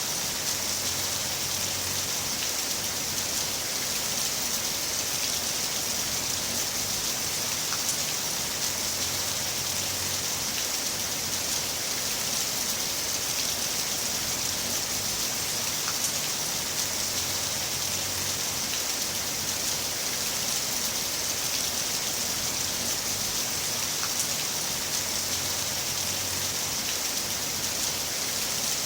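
Heavy rain falling steadily: a dense, even hiss with scattered sharp drop ticks. A faint low rumble comes and goes about every eight seconds.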